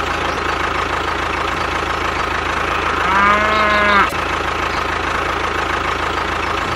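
A cow moos once, a single call of about a second, about three seconds in, over a steady engine-like hum.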